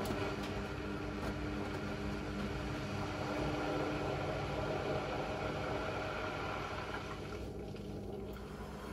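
Blomberg fuzzyDigitronic Granat 3200 washing machine taking in water: a rush of water through the inlet that starts suddenly, its hiss thinning out about seven and a half seconds in.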